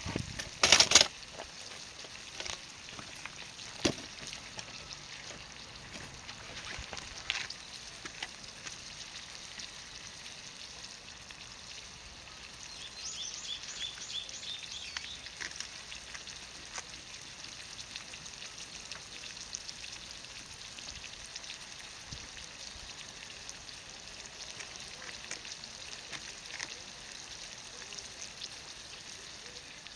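Oil sizzling and crackling steadily in a pan of mushroom-and-shrimp ajillo over charcoal. A few sharp knocks come near the start, the loudest about a second in, and a brief high chirping trill sounds about halfway through.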